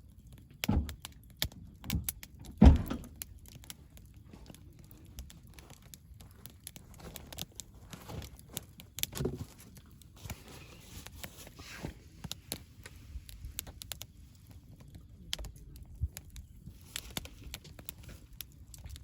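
Wood campfire crackling, with irregular sharp pops and snaps and a few louder knocks in the first three seconds.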